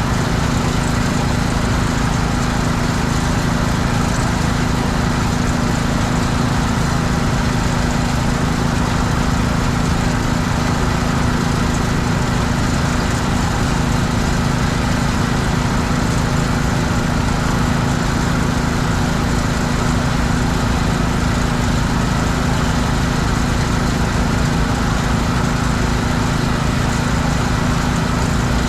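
Gasoline engine of a pressure washer running steadily at constant speed, with the hiss of the spray over it.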